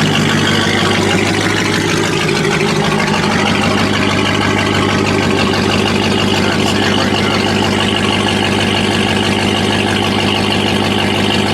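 A car engine idling steadily, an even low running note that does not rise or fall.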